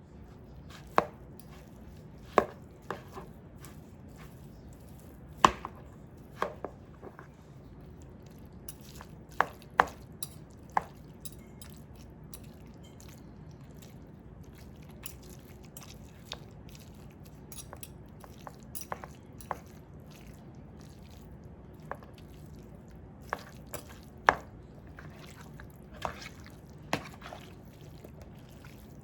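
Irregular sharp taps and clicks of kitchen utensils working on food, about twenty in all, some much louder than others, over a faint steady hum.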